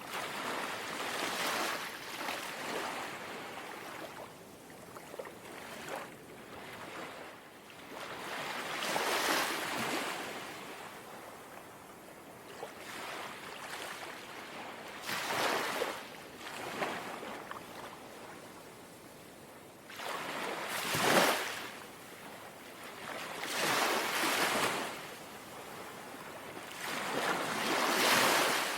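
Small, gentle waves lapping on a shore: about six washes of water, each swelling up and falling away, a few seconds apart with a softer hiss of water between them.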